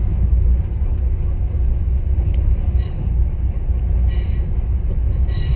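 Passenger train car rolling along the track: a steady low rumble, with a few brief high-pitched squeals about three, four and five seconds in.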